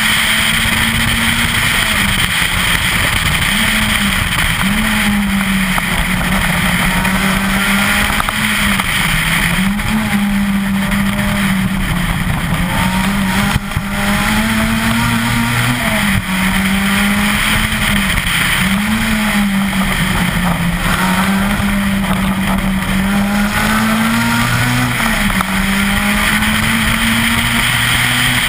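Citroën Saxo VTS 16V rally car's 1.6-litre 16-valve four-cylinder engine, heard onboard, driven hard at high revs along a stage. Its pitch dips briefly and climbs again every few seconds as the driver shifts and lifts for the bends.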